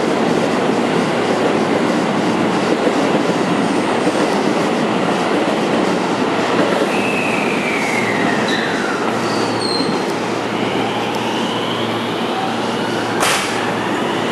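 JR West electric commuter train running past along the station platform, with a steady rumble of wheels on rail. Partway through, the wheels squeal in a tone that falls in pitch, then in fainter rising tones. A single sharp click comes near the end.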